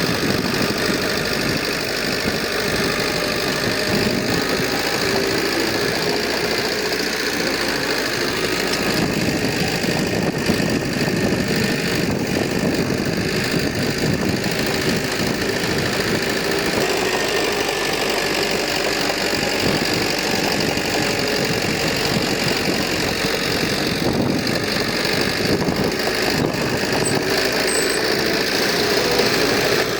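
Diesel engine of heavy earthmoving equipment running steadily, with an even, unbroken sound and no clear revving or stops.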